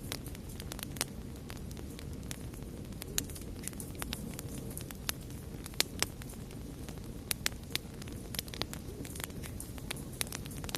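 Wood fire crackling: irregular sharp pops and snaps, a few louder than the rest, over a steady low rustle of burning.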